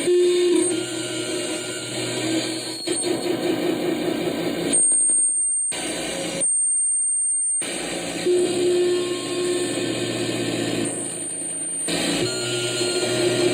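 Homemade experimental electronic sound machine putting out a dense drone of steady tones over a noisy, wavering texture. The sound cuts out twice for about a second around the middle, leaving only a thin high whine.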